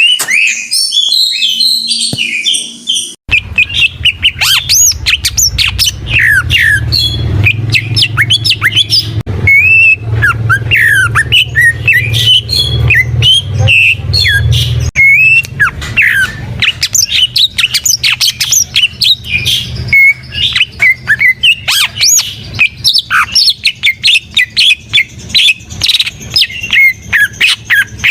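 Cucak ijo (green leafbird) singing continuously, a rapid, varied stream of sharp whistled notes and chirps. A low hum lies under the song from about 3 s to 15 s in.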